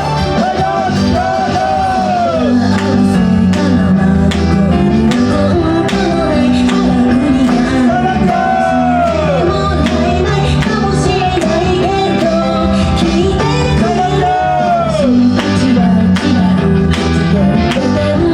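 Live pop-rock song: a woman singing with a loud, driving drum beat and bass under her, her voice bending through long sliding notes.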